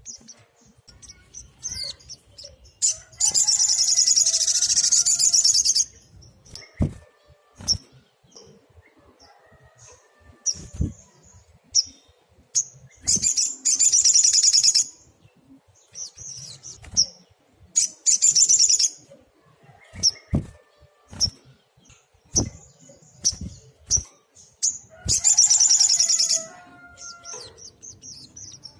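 Olive-backed sunbird (sogok ontong) singing: four loud bursts of rapid, high-pitched trilled song, each lasting one to three seconds, with short high chips between them.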